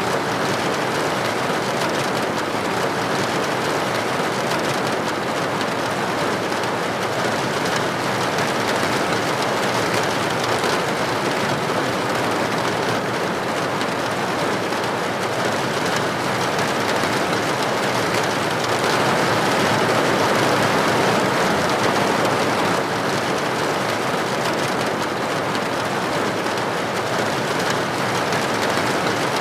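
Steady rain falling, an even dense hiss that swells slightly about two-thirds of the way through.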